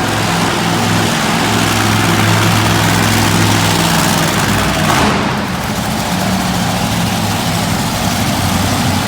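Monster truck engine running steadily at a low, even pitch over broad arena noise. Its note shifts after a short noisy burst about five seconds in.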